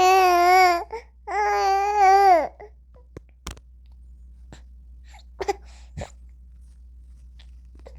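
A newborn baby crying: a long high wail that breaks off, then a second shorter wail, then a pause with only a few small breaths and clicks.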